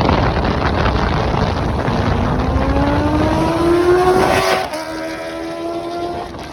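Inline-four Kawasaki motorcycle engine accelerating, its pitch climbing steadily for about three seconds, then dropping suddenly and holding steady, over a loud rushing noise.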